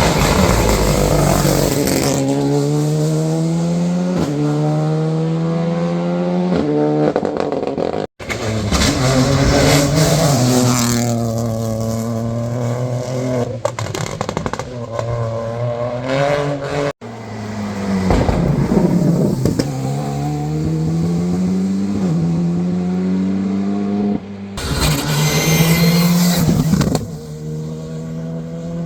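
Rally cars on a wet stage accelerating out of a tight corner, the engine note climbing in steps as the driver shifts up, in three separate passes. Near the end a harsher, noisier burst joins the engine.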